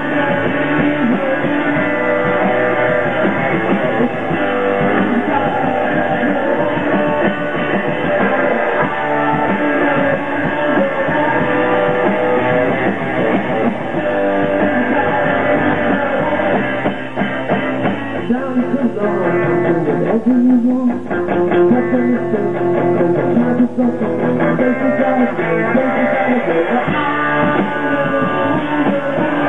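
Live rock band playing loudly, with guitar and some singing, heard through a limited-bandwidth recording.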